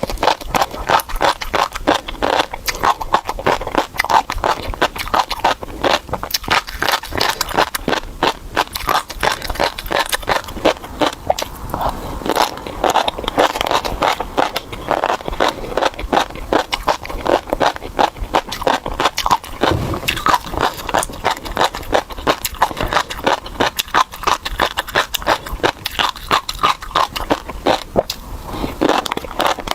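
Close-miked chewing of tobiko (flying fish roe), the tiny roe beads crunching and popping between the teeth in a dense, continuous crackle of small clicks.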